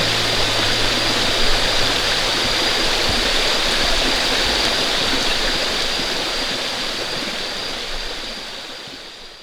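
Steady rushing water noise, fading out over the last few seconds.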